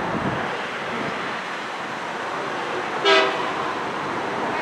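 A single short toot of a train horn about three seconds in, over a steady rushing rail noise.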